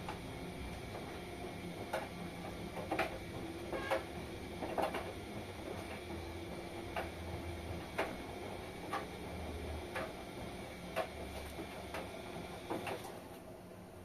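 Front-loading washing machine tumbling a wash: a steady motor and drum hum with sharp clicks and knocks about once a second as the load turns over. The sound drops off near the end as the drum slows.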